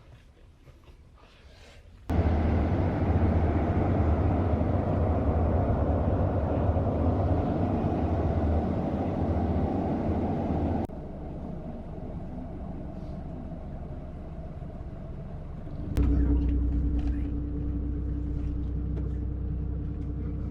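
Cabin noise of a moving Scania-chassis double-decker coach: a steady low road and engine rumble. It starts suddenly about two seconds in, drops sharply in level near the middle, and rises again near the end with a steady hum.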